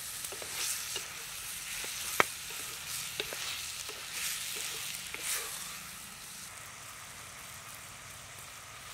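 Chicken frying and sizzling in a clay pot over a wood fire while a wooden spatula stirs and scrapes it, with scattered clicks and one sharp knock about two seconds in. The stirring stops about six seconds in and a quieter, steady sizzle goes on.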